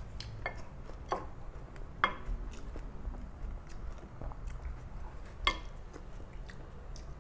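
A person chewing mouthfuls of rice and mung bean stew, with scattered sharp clicks from mouth and wooden spoon and fork on a plate. The loudest clicks come about two seconds in and again about five and a half seconds in.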